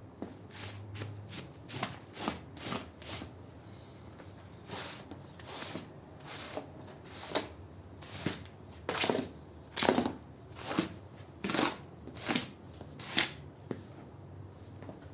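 Repeated scrubbing strokes across a carpet being washed, about one to two a second, pausing briefly a few seconds in and growing louder in the second half.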